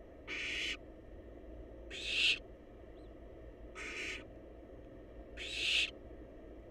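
Barn owl nestlings giving their food-begging calls: four hoarse, hissing screeches about half a second each, spaced roughly a second and a half apart, the second and fourth swelling louder toward their ends.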